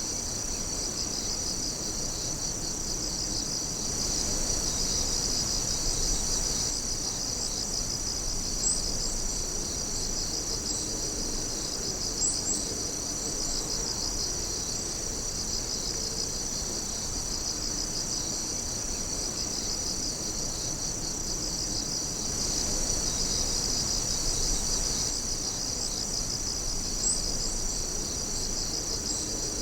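Chorus of night insects singing: a dense, steady, high-pitched chirring with a fast pulsing trill. A few brief, sharper chirps stand out now and then.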